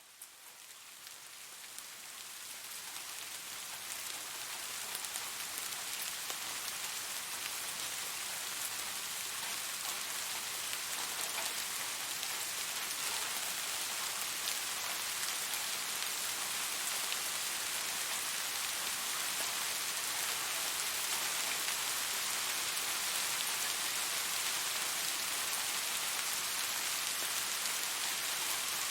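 Steady rain falling, a dense even hiss with scattered sharper drop ticks, fading in over the first few seconds.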